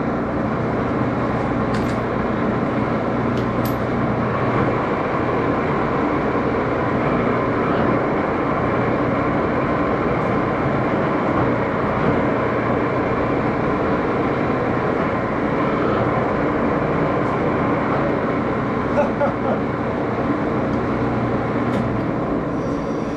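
Axelson engine lathe running with its spindle turning at speed: a steady geared machine noise with many steady tones through it, unchanging throughout.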